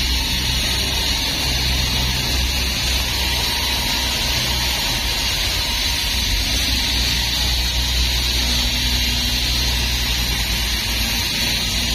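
Hydraulic wire saw cutting concrete, running steadily with the low drone of its hydraulic power unit under a constant hiss.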